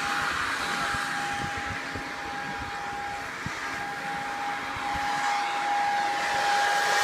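A steady machine drone with a constant whine over a noisy hiss, with scattered low thumps like wind on the microphone.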